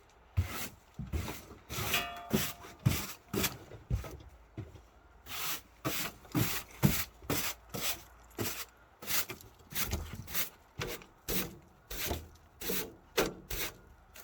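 Snow being cleared out by hand: quick, even scraping strokes, about two a second.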